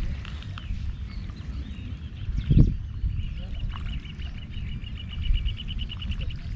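A bird's rapid, high-pitched trill, about eight notes a second, that starts about three seconds in and lasts about three seconds, over a low steady rumble. A dull thump comes about two and a half seconds in.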